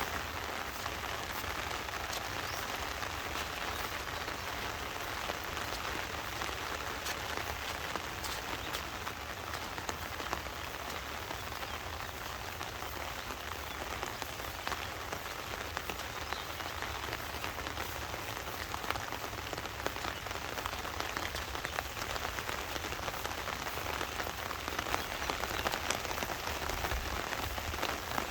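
Heavy monsoon rain falling steadily: a dense, even hiss with many individual drop ticks scattered through it and a low rumble underneath.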